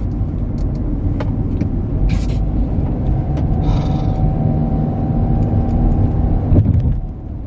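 Car being driven, heard from inside the cabin: a steady low road and engine rumble, with a faint hum that joins about halfway through and cuts off sharply about six and a half seconds in, where the rumble drops quieter.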